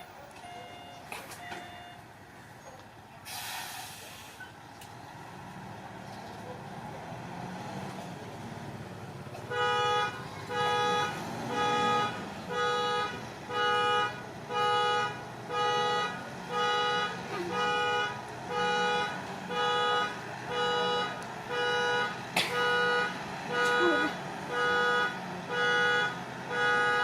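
Heavy-equipment back-up alarm beeping about once a second, starting about ten seconds in, over the low running of a diesel engine. About three seconds in there is a brief hiss.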